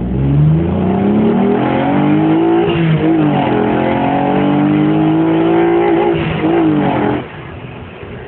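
Alfa Romeo 155's 3.0 V6 engine under hard acceleration, its pitch climbing, dropping briefly about three seconds in, then climbing again. It rises and falls quickly a couple of times near the end, then goes much quieter at about seven seconds.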